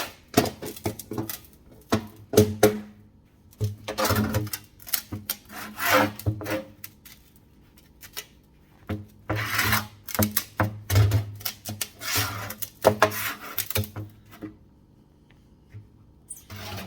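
A 4-inch snap-together metal dryer vent pipe being handled: irregular rubbing and scraping with sharp clicks in bursts and short pauses, as the seam is worked together and the pipe is pressed back into shape.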